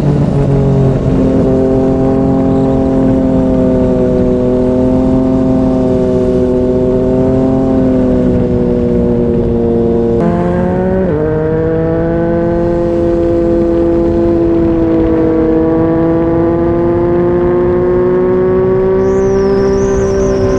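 2020 Yamaha MT-09's three-cylinder engine through a Yoshimura R55 slip-on exhaust, pulling steadily under way with its pitch drifting slowly, and an abrupt change in the engine note about ten seconds in, as at a gear change.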